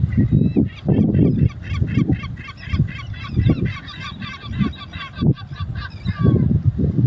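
A flock of birds giving rapid, overlapping honking calls that stop about six seconds in, over the low rumble of the sea and gusts of wind on the microphone.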